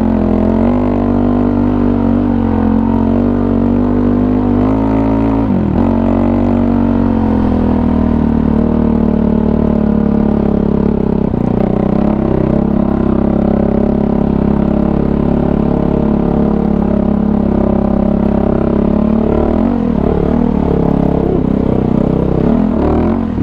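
Kawasaki KFX450R ATV's single-cylinder four-stroke engine running under way, its pitch climbing over the first few seconds, dropping sharply about five and a half seconds in, then holding steady with some throttle changes near the end.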